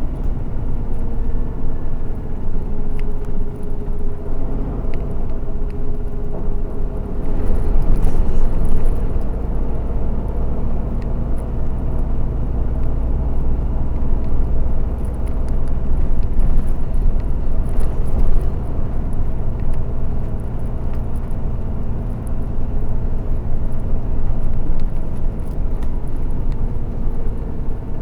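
A BRT route bus driving along its dedicated busway: steady engine and road rumble, with the engine note drifting up and down as it changes speed, and getting louder for a couple of seconds about eight seconds in.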